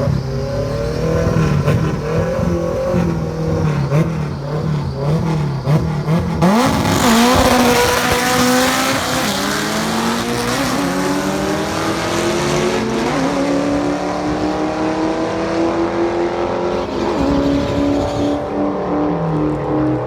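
Car engine revving in short blips at the line, then launching hard about six seconds in and accelerating down the drag strip, its pitch climbing through several gear changes. Near the end the pitch falls.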